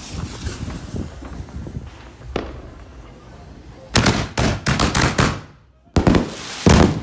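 Consumer canister firework shells bursting: a crackling hiss with a single pop, then from about four seconds in a quick run of sharp bangs, a brief lull, and two more bangs near the end, the last the loudest.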